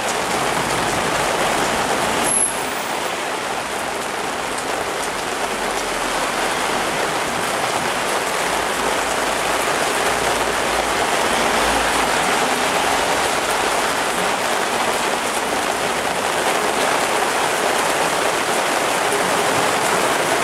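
Heavy rain pouring onto a city street, parked cars and pavement: a steady, dense hiss of rain and splashing water. A low rumble of traffic on the wet street rises in the middle.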